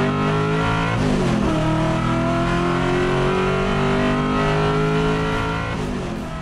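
Group C VH Commodore race car's V8 with side-exit exhaust pipes, accelerating hard. It climbs in revs, dips sharply about a second in as it shifts up a gear, then climbs steadily again before easing off near the end.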